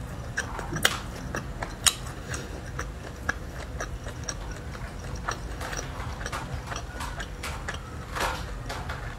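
Close-miked chewing with the mouth closed: scattered small wet clicks and smacks, two sharper ones in the first two seconds, over a steady low hum.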